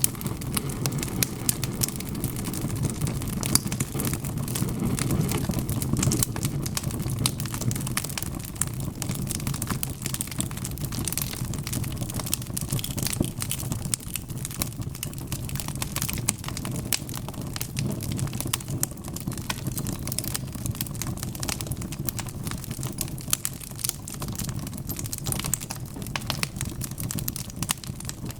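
Wood fire crackling: a steady low rumble of burning with many small, sharp pops and crackles all through.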